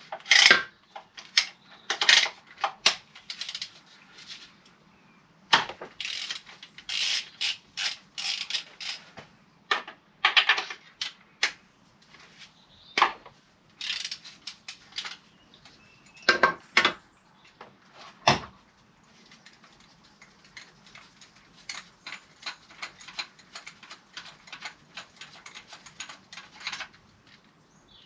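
Socket ratchet and hand tools clicking and clinking as a spark plug is worked out of the engine, with scattered knocks at first, then a long run of rapid ratchet clicks near the end.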